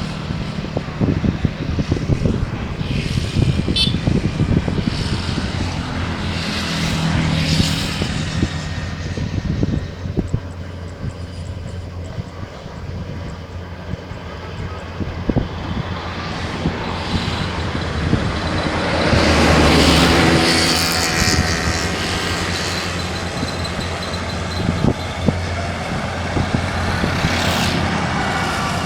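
Rice combine harvester running steadily in the paddy, a low engine hum with rattling and clicking from the cutting and threshing works, swelling louder about two-thirds of the way through.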